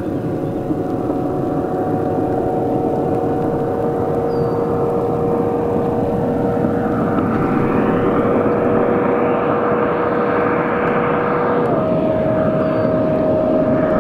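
Porsche 918 Spyder Weissach's 4.6-litre V8 hybrid at full throttle, approaching from far off: a steady high engine note over a growing rush of noise. The note steps down in pitch about 12 seconds in.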